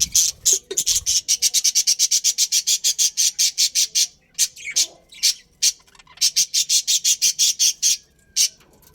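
A small bird calling in fast, evenly repeated harsh chirps, about eight a second, in a long run, then a few separate calls, then a second shorter run.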